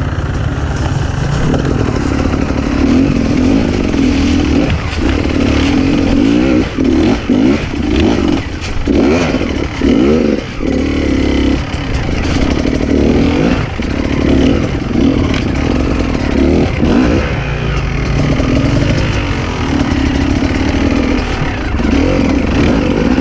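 Enduro dirt bike engine under throttle, revving up and down in short bursts with brief drops as the rider works the bike over rough forest terrain.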